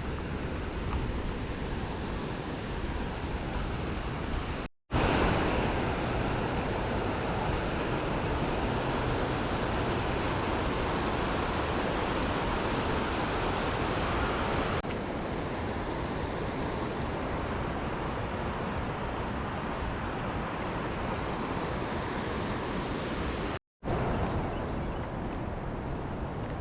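Steady rush of flowing river water, an even noise with no distinct events, louder for a stretch after the first break. It drops out abruptly for a moment twice, once about five seconds in and again near the end.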